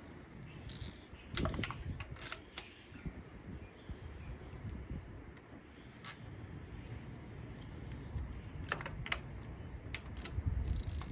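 Scattered, irregular metal clicks and clinks of a spark plug socket and hand tools being handled and fitted onto the plugs.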